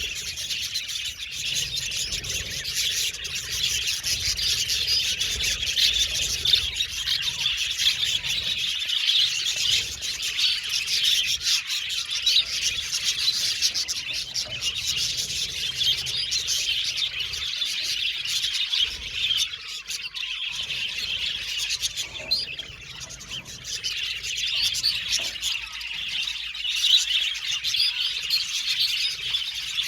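A flock of budgerigars chirping and chattering continuously, many high twittering calls overlapping, with a brief lull near the end.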